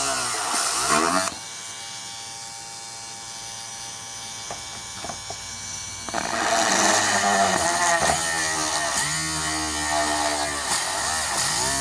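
Small DC-motor mini drill whining at high speed, its pitch rising and falling as it speeds up and slows down. It drops to a quieter steady hum with a few clicks for several seconds, then runs loudly again from about halfway through.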